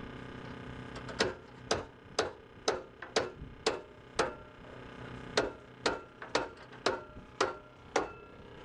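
Hammer blows on metal: sharp, evenly spaced strikes about two a second, with a pause of about a second near the middle, each leaving a brief ring.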